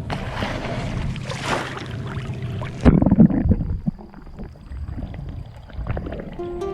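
Wind and water rushing on a moving boat, cut off abruptly about three seconds in and replaced by a brief louder rumble, then quieter boat noise. Music comes in near the end.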